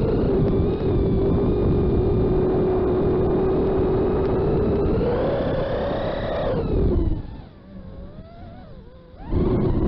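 FPV quadcopter motors and propellers whining at a steady pitch. They rise as the throttle comes up about halfway through, then the throttle is cut and the whine drops away to a faint, falling hum. Near the end the motors punch back up to full loudness.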